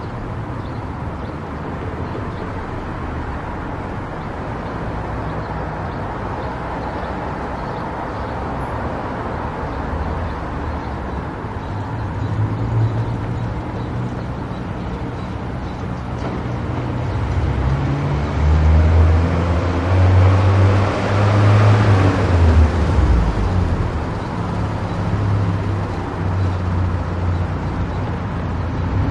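A car driving along a road, with steady engine and tyre noise. About two-thirds of the way through, a deep rumble swells louder for several seconds, then eases off.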